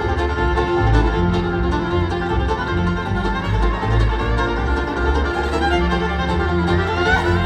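Live bluegrass band playing an instrumental break, the fiddle taking the lead over acoustic guitar, banjo and bass, with a rising slide near the end.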